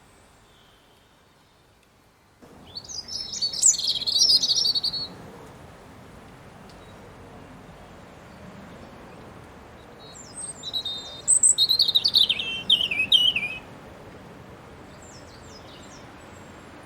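A small garden songbird singing two short, high, quickly warbling phrases several seconds apart, the second sliding downward, over a faint steady background hiss.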